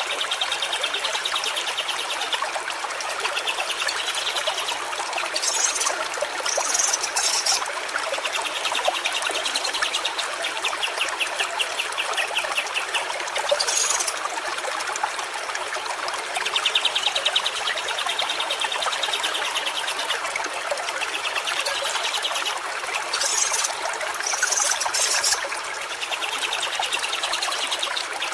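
Stream water trickling and flowing steadily. Over it, short patches of rapid pulsed trills recur every few seconds, with a few brief high chirps.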